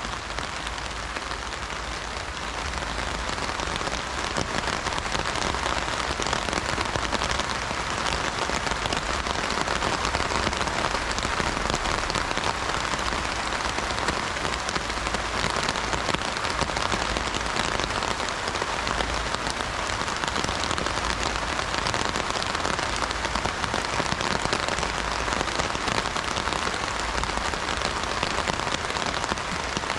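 Heavy rain drumming steadily on an umbrella canopy, a dense patter of countless drops, growing a little louder in the first few seconds and then holding steady.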